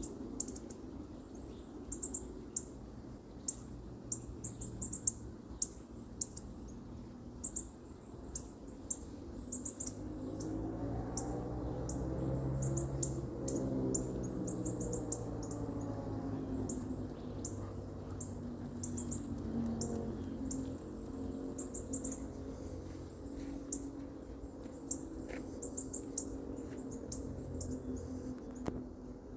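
Baby bird cheeping: short, very high-pitched chirps in quick clusters every second or two, over a low steady hum that grows louder in the middle.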